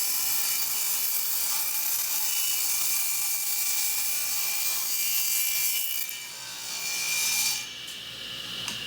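Table saw ripping a 2x4 along the fence, the blade cutting through the wood with a steady, high-pitched noise and a faint whine. About six seconds in the sound dips, swells briefly, then falls away as the cut finishes.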